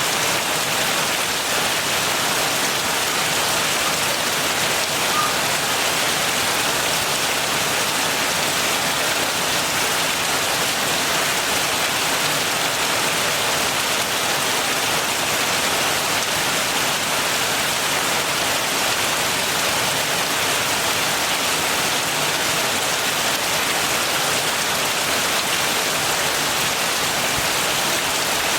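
Heavy rain falling steadily, an even hiss that neither builds nor lets up.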